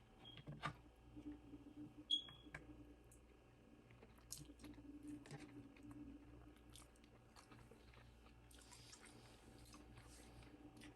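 Chewing and biting of food, with scattered soft clicks and light crunches from the mouth.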